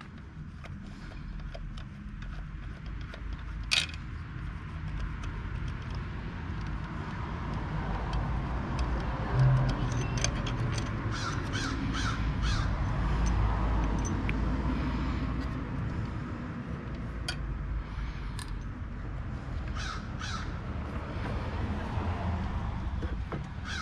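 Crows cawing several times, over a low steady rumble, with scattered sharp metallic clicks of hand tools on engine parts.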